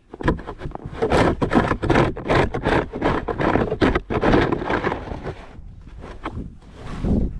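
Snow shovel scraping and pushing snow across driveway pavement in a run of rough, crackling strokes. It eases briefly before picking up again near the end.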